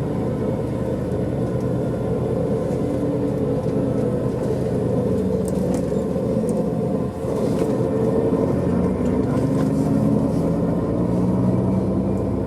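A vehicle engine running steadily while driving, with road and tyre noise, heard from inside the moving vehicle. The level dips briefly about seven seconds in.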